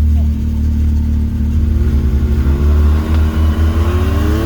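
Side-by-side UTV engine revving up in low range as it tries to pull away on ice, its pitch climbing steadily from about a second and a half in. Under it, another engine idles close by with a steady low drone.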